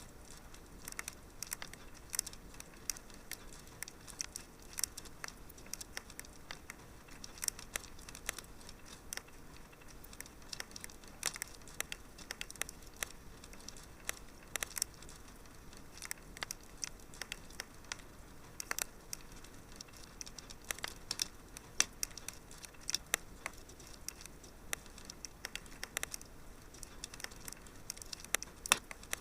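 Wood fire in a fireplace crackling: irregular sharp snaps and pops, several a second, over a soft hiss, with a few louder pops scattered through.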